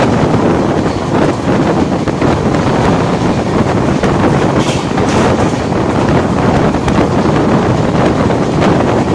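Superfast express passenger train running at speed, heard from the coach's open window: a steady loud rush of wheel and rail noise mixed with wind.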